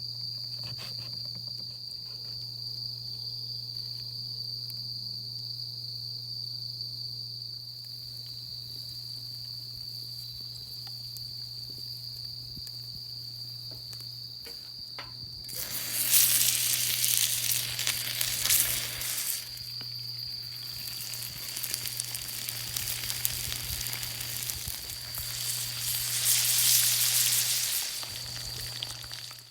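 A steady high insect trill, and about halfway through, food starts sizzling loudly as it fries over a wood fire. The sizzle swells to its loudest in two stretches, one just after it starts and one near the end.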